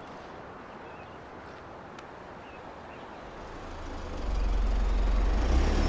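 Faint outdoor background hum, then a vehicle's engine rumble swelling in about four seconds in and holding loud and low, as of a car pulling up close.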